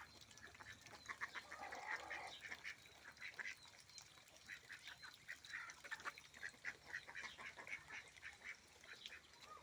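Farmyard poultry calling faintly in quick runs of short calls, in two bouts with a brief lull between them.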